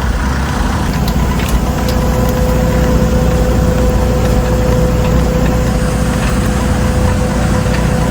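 Tow truck engine idling steadily with a low rumble; a steady higher hum joins about two seconds in.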